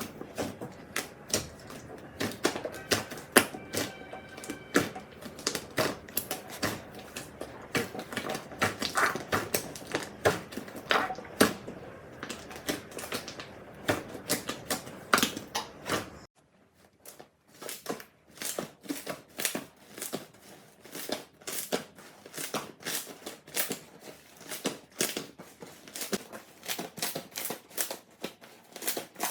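Slime being squeezed and poked by hand, giving a rapid run of sharp clicks and pops. About sixteen seconds in the background hiss drops away, and the clicking goes on in a more even rhythm of about three clicks a second.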